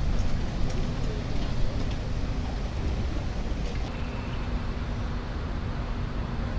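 Steady low rumble of a running vehicle, with a few faint clicks and a faint steady hum joining about four seconds in.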